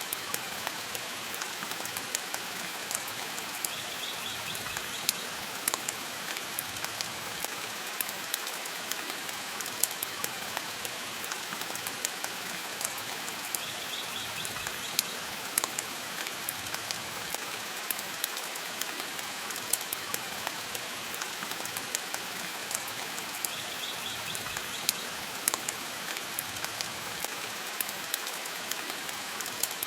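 Steady rain hiss, dotted with frequent sharp crackles and pops from a burning wood fire.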